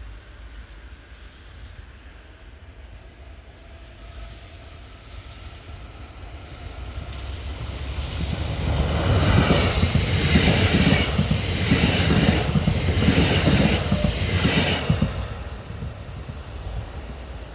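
Škoda electric multiple unit commuter train approaching and passing: a rumble of wheels on rails that grows louder, peaks in the middle with a run of repeated clatters as the wheels go by, then fades as the train moves away.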